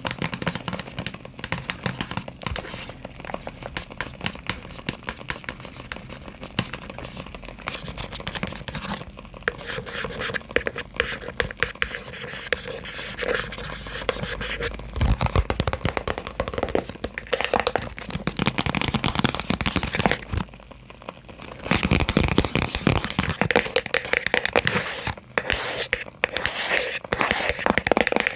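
Fingernails tapping and scratching rapidly on small boxes: a dense run of clicks and scrapes that grows louder in the second half, with a brief lull a little past the middle.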